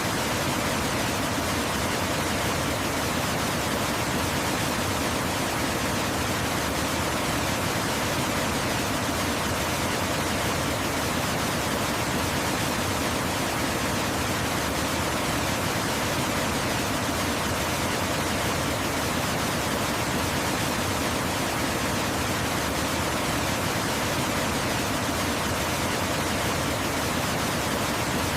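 Waterfall: a steady, unbroken rush of falling water, even across high and low pitches with no changes.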